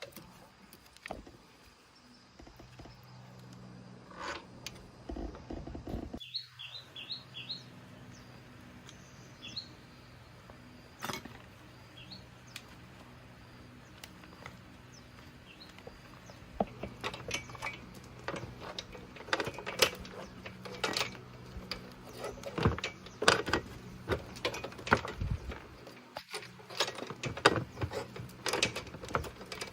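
Irregular clinks and knocks of hand tools and metal parts being handled, growing busier and louder from about the middle on, over a steady low hum. A short run of bird chirps about six seconds in.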